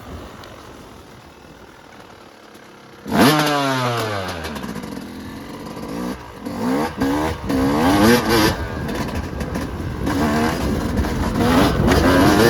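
Yamaha YZ250 two-stroke dirt bike engine being ridden: low and quiet for about three seconds, then a sudden sharp burst of throttle whose pitch falls away, followed by repeated revs rising and falling as the rider works the throttle and gears.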